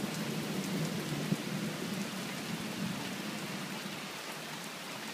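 Rain falling steadily during a thunderstorm, with a low rumble of thunder that gradually fades.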